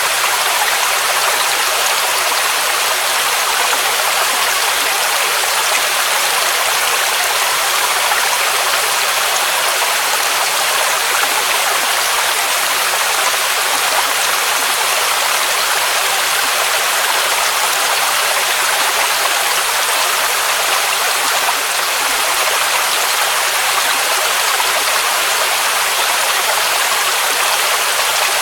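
Waterfall rushing steadily: a constant hiss of falling water, with its weight in the upper range and little low rumble.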